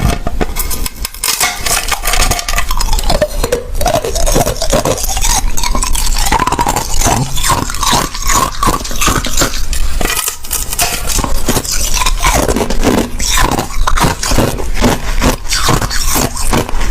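Close-miked crunching of thin, clear crushed ice being chewed, a rapid, steady string of loud crunches and crackles.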